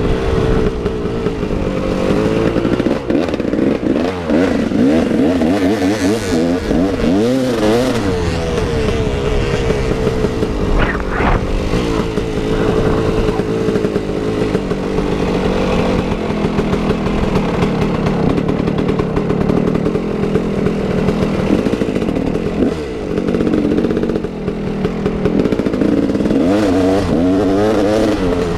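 KTM 380 EXC two-stroke dirt bike engine being ridden hard, its revs repeatedly rising and falling as the throttle is worked and the gears are changed.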